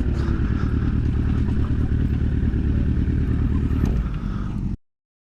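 Motorcycle engine running steadily with road and wind noise, cutting off abruptly near the end.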